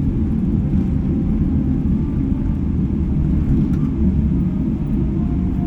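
Boeing 777-300ER cabin noise heard from inside the passenger cabin around landing: a steady low rumble with no distinct changes.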